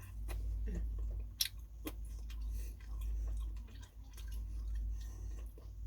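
Close-up chewing of phở noodles: wet mouth smacks and scattered sharp clicks.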